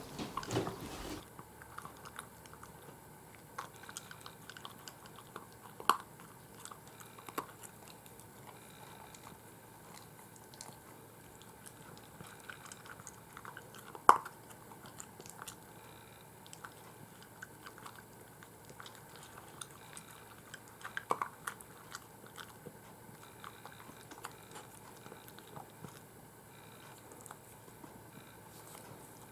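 A dog chewing, with scattered sharp crunches, one louder crunch about halfway through.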